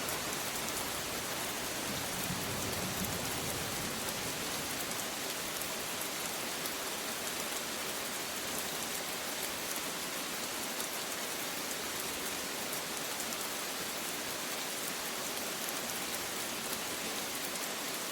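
Steady rain falling, a dense even hiss with fine individual drop impacts, and a faint low rumble about two to four seconds in.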